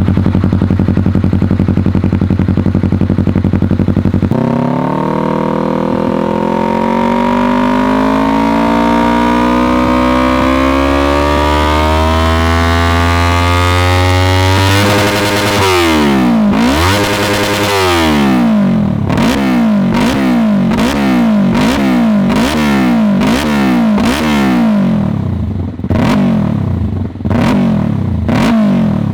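Yamaha YZF-R3 parallel-twin engine through a custom Dynamic aftermarket exhaust. It holds a steady idle, then its revs climb slowly and continuously for about ten seconds. After a brief drop it is revved in quick repeated throttle blips, about three every two seconds, to show how fast the revs come up low and mid range.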